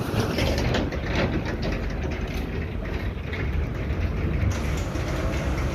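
Dump truck's diesel engine running steadily with a low drone.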